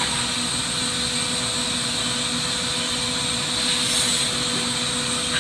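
Steady hiss and roar of a propane-oxygen glassworking torch flame over the steady hum of the shop's overhead extraction hood, with a brief louder rush of hiss about four seconds in.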